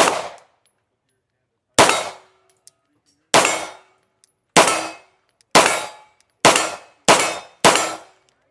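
Eight single gunshots, the gaps shrinking from nearly two seconds to about half a second toward the end. Each shot has a short ringing decay.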